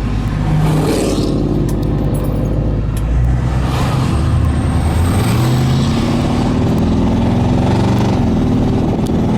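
Lowrider cars' engines running and revving as they drive, their pitch rising and falling.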